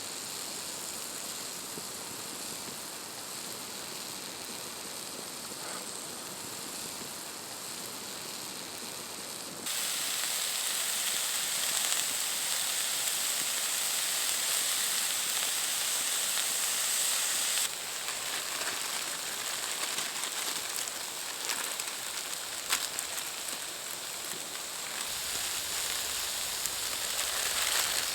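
A steady rain-like hiss with a few faint scattered clicks. Its level and character change abruptly about ten, eighteen and twenty-five seconds in.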